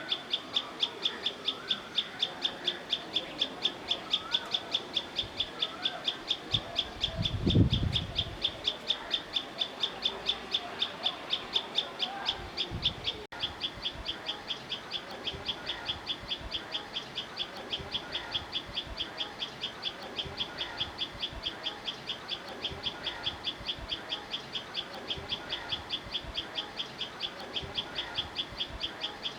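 Nature ambience: a high, even chirp repeating about three times a second without a break, with softer, varied bird calls beneath. A low thump about seven and a half seconds in.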